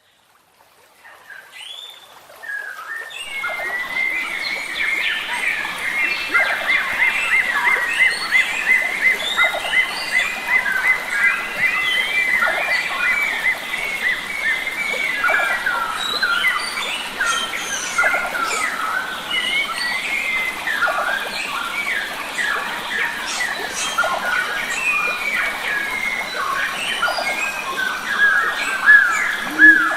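Chorus of forest birds, many chirping and whistling over one another over a steady background hiss, fading in from silence over the first few seconds. Near the end a low steady tone joins in.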